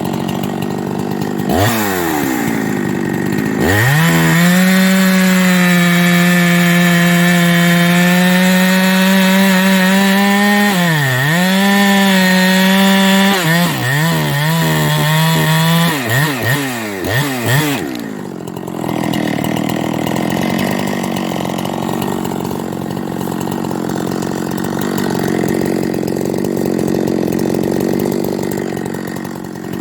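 Ported Farmertec 372XP-clone two-stroke chainsaw revved twice, then held at high revs with a steady high whine, dipping sharply once and blipped up and down several times. From about eighteen seconds in it runs lower and rougher, then revs up again at the end.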